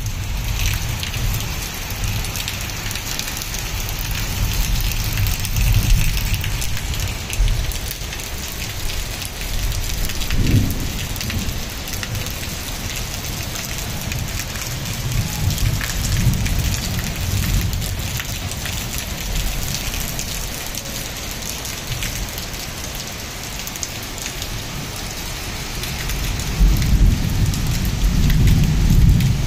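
Heavy rain pouring steadily, a dense hiss throughout. Under it runs a deep rumble that swells and fades, loudest near the end.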